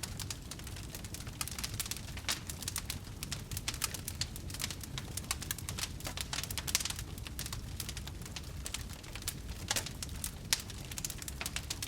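Wood fire burning in a fireplace, with a steady low rumble and many sharp irregular crackles and pops, a few louder snaps near the middle and the end.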